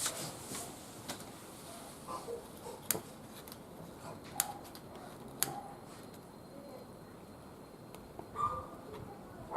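Wood fire burning in a barbecue grill, with a few scattered sharp crackles and pops from the burning firewood.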